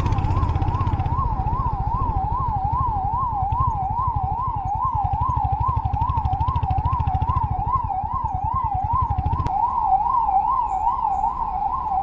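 Emergency vehicle siren in a fast up-and-down yelp, about two and a half sweeps a second, over a low engine rumble that stops about nine and a half seconds in.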